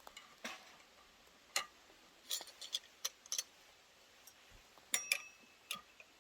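Irregular light clicks and taps, about a dozen, like small hard objects being handled, with a brief metallic ring about five seconds in.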